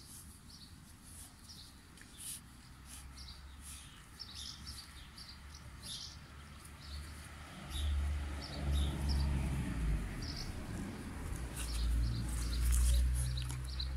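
Small birds chirping, with short high chirps every second or so. About eight seconds in, a loud low rumble starts and becomes the loudest sound.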